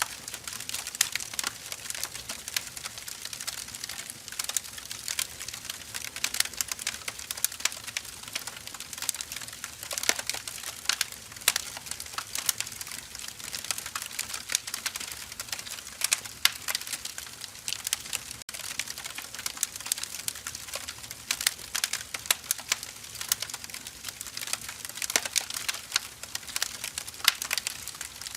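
Wood fire crackling: a continuous, irregular stream of sharp snaps and pops from burning logs over a soft steady hiss.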